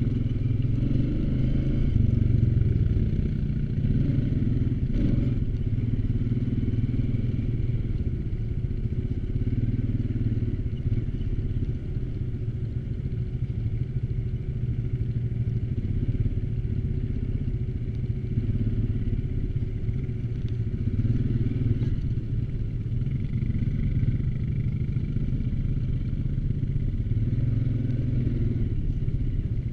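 ATV engine running while riding, its note swelling and easing with the throttle every few seconds, with a single knock about five seconds in.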